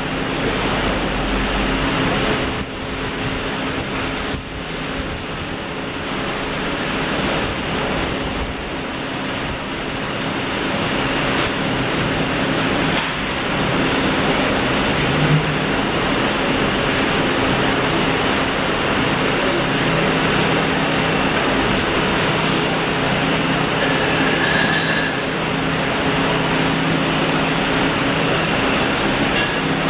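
Electric arc welding: a steady, loud hiss and crackle from the arc, over a low machine hum.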